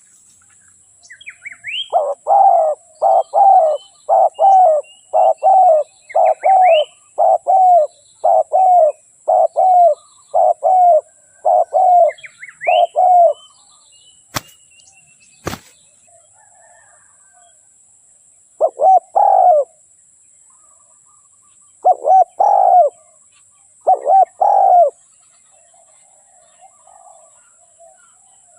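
Spotted dove cooing: a run of about a dozen low coos, roughly one a second, then a pause and a few more coos, some in pairs. Faint high chirps of smaller birds and two sharp clicks fall in the pause.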